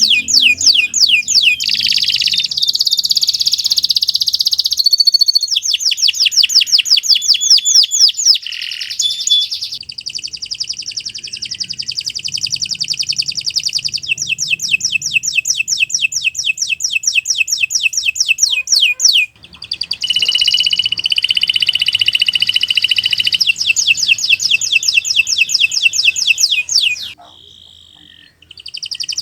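Domestic canary singing a long song made of rapid trills, fast runs of high repeated notes, one trill running into the next. The song breaks off briefly about two thirds of the way in and again near the end.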